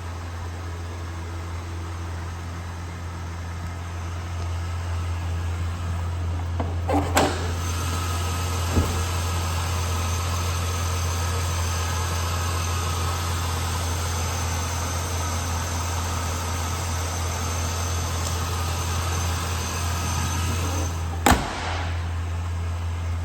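2000 Chevrolet Silverado 1500 pickup engine idling steadily. A few sharp clunks sound over it, about seven seconds in and again near the end, the last one the loudest.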